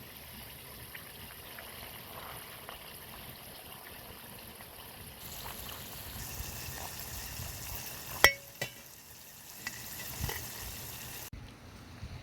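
Food frying in a pan over a campfire with a steady sizzling hiss, and a sharp ringing clink of a utensil about eight seconds in. The hiss drops away abruptly near the end.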